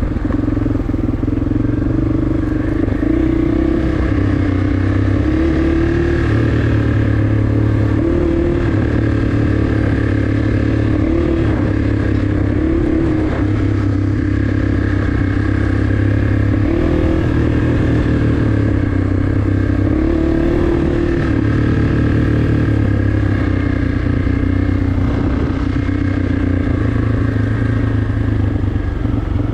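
Single-cylinder four-stroke 250 cc dirt bike engine running steadily under way, its pitch rising and falling a little as the throttle is worked.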